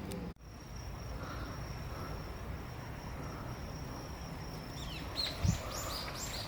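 Outdoor nature ambience: a steady high-pitched insect-like tone over a faint background hiss. About five seconds in, a quick run of five or six falling chirps sounds, with a single low thump among them.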